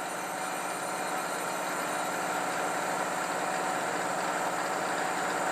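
Grinding machine running as its diamond dressing wheel grinds a slot into a white aluminum oxide sharpening stone: a steady mechanical whirr that grows slightly louder.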